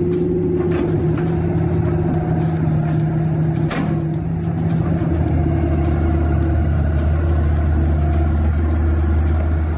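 Compact excavator's engine running steadily under load while driving a stump grinder attachment, its low note growing stronger about halfway through.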